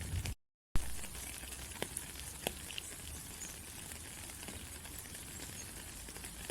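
Steady rain falling, a constant hiss with a few sharper drop ticks. Under half a second in the sound drops out to silence for a moment and comes back with a sharp click, like a splice in the recording.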